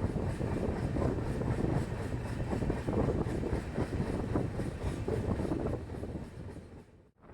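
Express train running, a dense rumble and rattle with wind buffeting the microphone. It fades out near the end.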